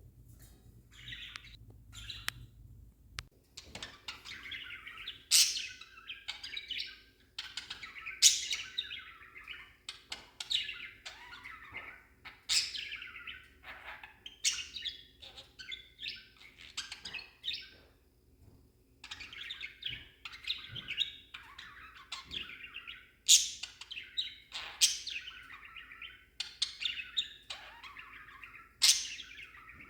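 Pet budgerigar warbling and chattering on and on, with loud sharp chirps every few seconds and a short break a little past the middle.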